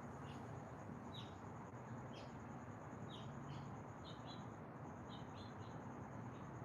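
Small birds chirping, with short, quick calls and downward-sweeping notes repeated every fraction of a second. A steady high-pitched pulsing trill runs beneath them, breaking off briefly about two-thirds of the way through, over a faint background hush.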